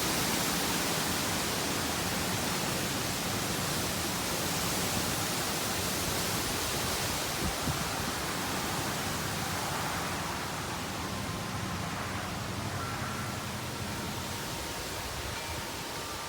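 Strong wind blowing, a steady rushing noise that eases slightly about two-thirds of the way through.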